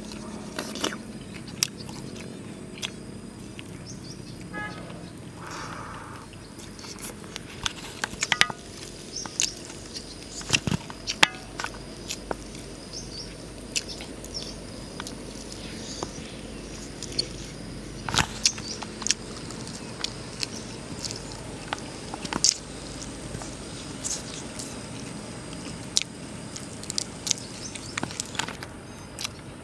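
Close-up mukbang eating sounds: irregular crunching, snapping and smacking as spicy fried chicken and rice are bitten and chewed, with a brief pitched chirp about five seconds in.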